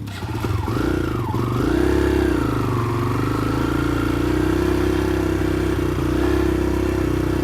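Kawasaki KLX140G dirt bike's single-cylinder four-stroke engine running just after starting: the revs rise and fall a couple of times in the first three seconds, then it settles to a steady idle.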